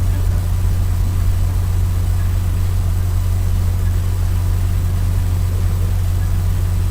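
Steady low drone of a vehicle engine running, unchanging in pitch.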